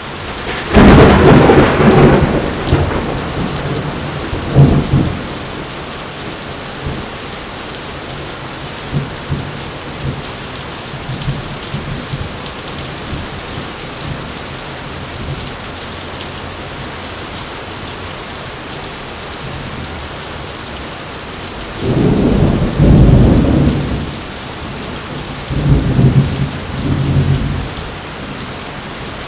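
Heavy rain falling steadily, with thunder: a loud crack that rumbles on for a couple of seconds about a second in, a shorter clap a few seconds later, and two low rolls of thunder near the end.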